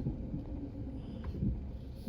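Low, steady engine rumble from a vehicle at work, with some wind buffeting on the microphone.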